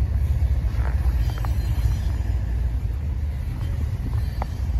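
Double-stack intermodal freight train's container cars rolling past: a steady low rumble with a few brief high squeaks.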